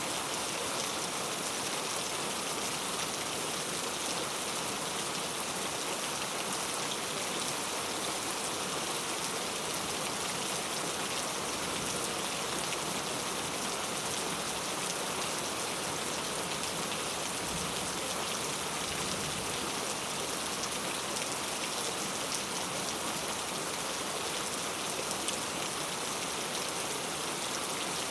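Heavy rain falling steadily on hard surfaces, a dense even hiss with many small drop ticks.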